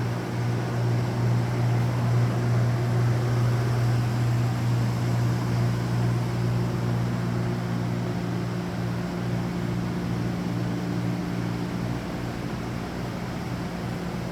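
A machine running steadily with a strong low hum and a wash of noise, a little louder in the first few seconds and easing slightly later.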